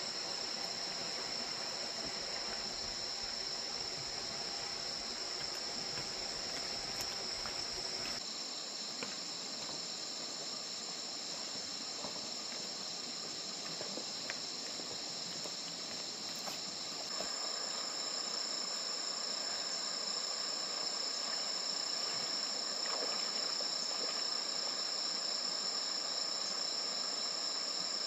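A steady, shrill night chorus of insects, crickets or similar, trilling without a break; the background changes abruptly twice, as at cuts in the footage.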